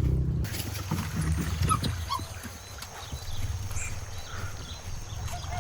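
Animal sounds: scattered short chirps and calls over a faint low hum. A louder low rumble stops about half a second in.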